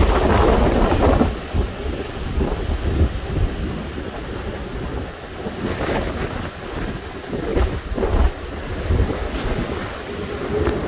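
Hurricane Ian's wind gusting and buffeting the microphone, with a heavy uneven rumble, loudest in a strong gust in the first second or so.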